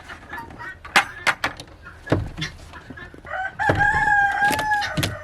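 A rooster crowing once, a long, steady call that starts a little past the middle and stops near the end, with chickens clucking and a few sharp clicks before it.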